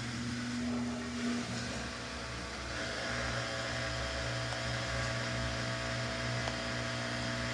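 Samsung washing machine's drum motor running, a steady electric hum with a buzzing tone that cuts in and out abruptly as the drum turns in one direction of the cycle.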